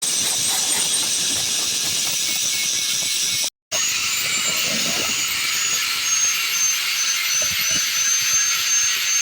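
Steady high-pitched whine of a fast-running power tool over a loud hiss, cut off briefly a little after three seconds in.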